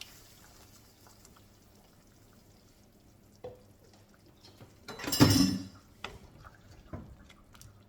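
Roughly blended tatashi pepper being poured into a pot of soup, with one loud wet splash about five seconds in and a few small knocks before and after it.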